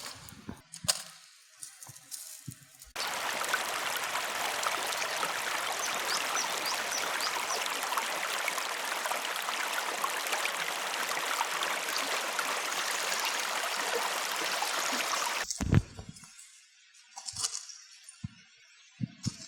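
River water rushing, a steady hiss that starts abruptly about three seconds in and cuts off suddenly near the end. Before and after it, a few light knocks and clicks.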